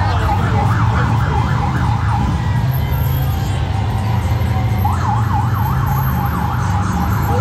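Police motorcycle sirens yelping in fast rising-and-falling sweeps, about four a second; they stop for a couple of seconds mid-way and start again, over the steady low rumble of motorcycle engines.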